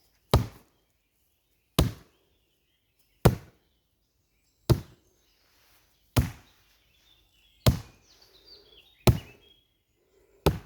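A shin kicked repeatedly against a bag in shin conditioning: eight sharp, even strikes, about one every second and a half.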